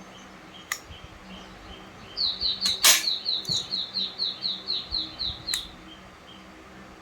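A bird calling a quick run of about fourteen short falling chirps, about four a second, starting about two seconds in. A few sharp clicks come with it, the loudest about three seconds in.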